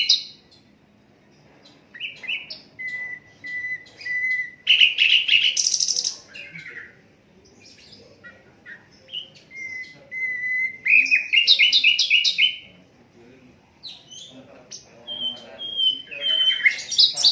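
Sikatan londo singing in repeated phrases, about four of them with short pauses between. Each phrase opens with a few even whistled notes and breaks into a fast, loud run of higher, rapidly repeated notes.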